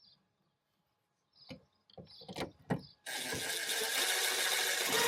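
A few light knocks of parts being handled, then about three seconds in a power tool's motor starts abruptly and runs steadily, with a steady whine under the noise: most likely a cordless drill-driver at work on the speaker or door fixings.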